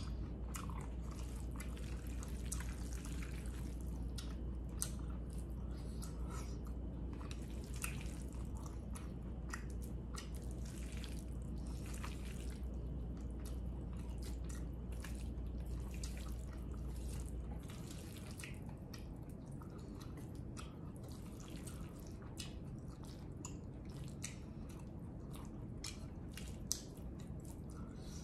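Close-up wet chewing and mouth sounds of someone eating bulgogi with glass noodles: many soft smacks and clicks. A low steady hum underneath cuts off about two-thirds of the way through.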